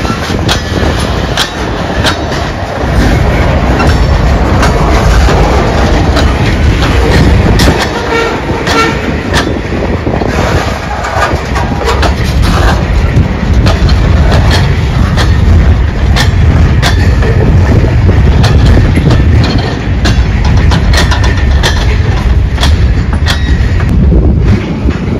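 Freight train cars, covered hoppers and then gondolas, rolling past at close range: a steady heavy rumble of wheels on rail with frequent sharp clicks and clanks.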